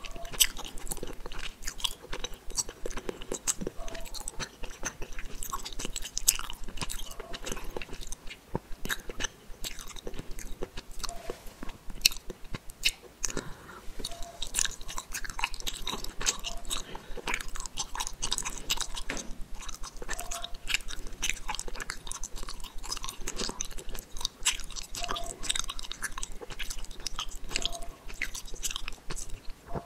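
Close-miked chewing of gummy candy: a steady stream of small, sticky, wet clicks from the mouth as the jelly is worked between the teeth.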